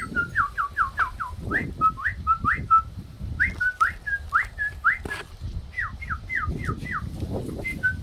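A pet bird singing a quick run of clear whistled notes, each sliding up or down in pitch, several a second with a couple of short breaks.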